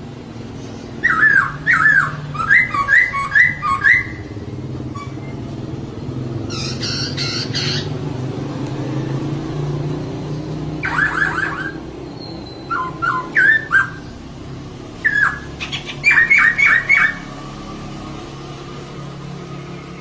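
Female poksay (laughingthrush) calling in several bursts of quick, repeated squawking notes, with one harsher rasping burst about a third of the way in. A steady low hum runs underneath.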